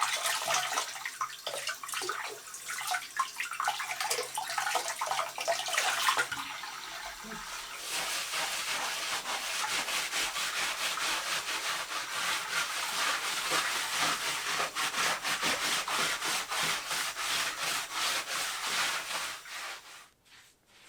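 Hand rubbing on a hard surface: irregular scraping at first, then from about eight seconds in a steady rhythm of quick back-and-forth strokes, several a second, that stops shortly before the end.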